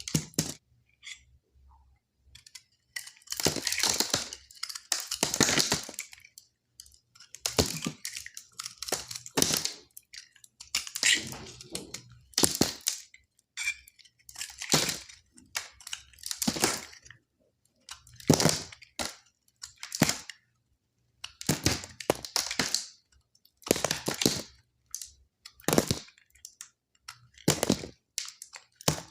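Blade cutting through dry soap, each cut a short crackling crunch, repeated about every one and a half to two seconds.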